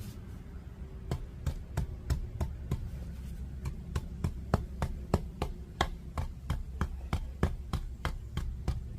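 A tamper pounding a freshly filled cold-patch asphalt repair in a driveway pothole, a steady run of thuds about three a second beginning about a second in. A steady low hum lies underneath.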